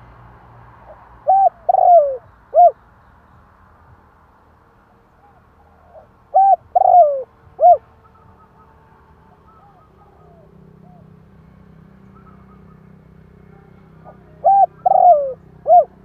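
Spotted dove cooing: three phrases of four short notes, the third drawn out and falling in pitch, repeated about every six to eight seconds.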